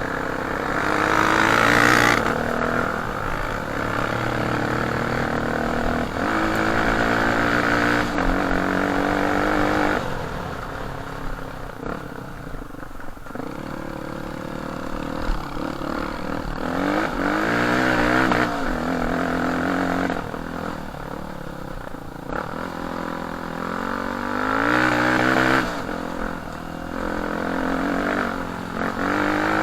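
Off-road dirt bike engine being ridden, its pitch repeatedly rising under throttle and falling off again, with louder surges at intervals and some rattling clatter.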